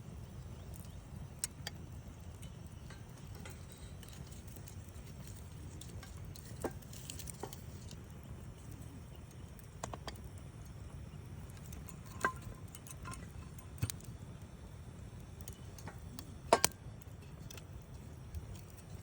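Wood campfire crackling: scattered sharp pops and snaps over a low steady rumble, the loudest a quick double pop about two-thirds of the way through.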